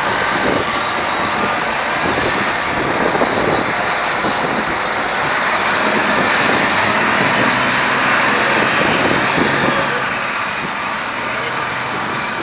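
City bus driving past close by: a steady, loud engine and road noise with a faint high whine over it.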